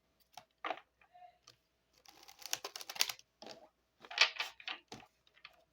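A Lenormand deck's paper cards being shuffled and handled: a run of quick, soft snaps and flicks, thickest about two to three seconds in.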